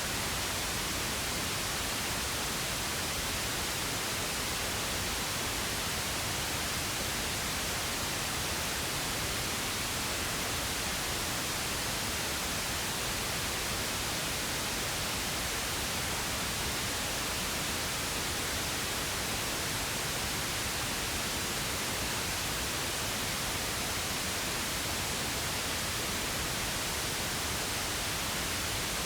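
Steady pink noise: an even, unchanging hiss spread across low and high pitches alike.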